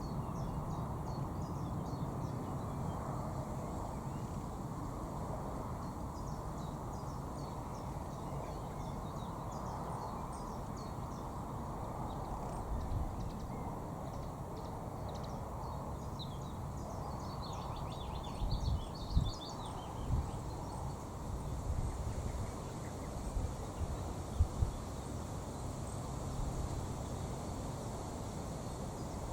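Small birds chirping and calling, with a quick run of calls about two-thirds of the way in, over a steady low rumble. A few dull knocks come near the middle and later on.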